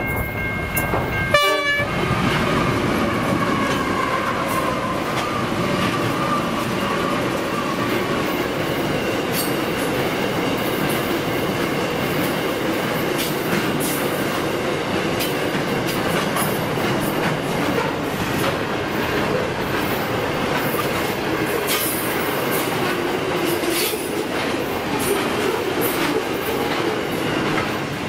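A Pacific National freight train's diesel locomotives sound a short chime-horn blast about a second in and run past. A long steel coil train of loaded flat wagons follows, rumbling and clacking over the rail joints.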